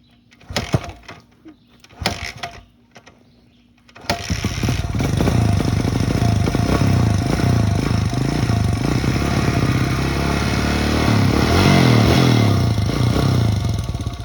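Gas dirt bike engine being started on choke after being dropped in a mud hole, which the rider thinks flooded it: two brief failed start attempts, then it catches about four seconds in and runs, the revs rising and falling, easing back near the end.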